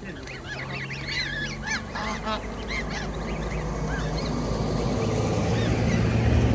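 Farm fowl calling: a flurry of short, high, chirping calls in the first few seconds, over a low steady drone that grows louder toward the end.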